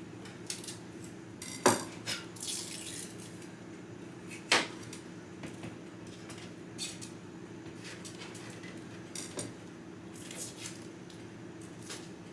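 Kitchen utensils and dishes clinking and knocking during food preparation, a handful of sharp knocks with the two loudest about one and a half and four and a half seconds in, over a steady low hum.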